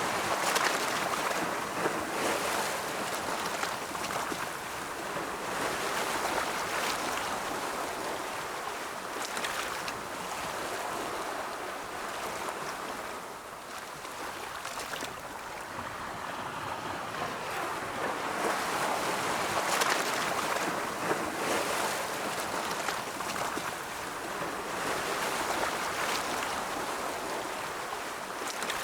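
Ocean waves breaking and washing in, a continuous rush of surf that swells and ebbs in slow surges, loudest near the start and again about two-thirds of the way through.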